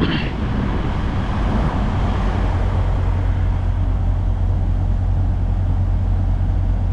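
Steady low drone of a diesel engine running at a constant idle, with an even hum and no change.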